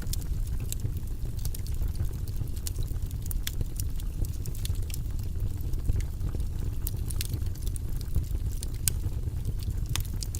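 Wood fire burning in a fireplace: a steady low rumble with frequent sharp crackles and pops scattered throughout.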